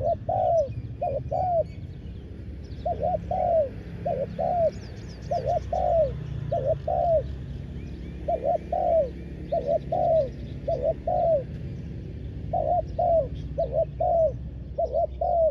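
Spotted dove cooing: short falling coos repeated in groups of two or three, again and again with brief pauses between groups.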